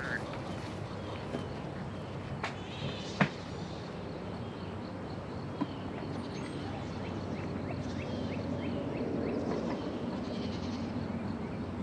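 Steady outdoor hiss with a couple of sharp knocks of wooden hive parts being handled, a quick run of short bird chirps midway, and a goat starting to bleat near the end.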